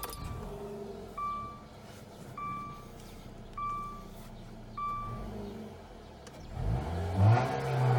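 2015 Dodge Dart's dashboard chime sounding four times, about once every 1.2 seconds, then the engine cranking and starting about six and a half seconds in, revs flaring up briefly before settling to a steady idle.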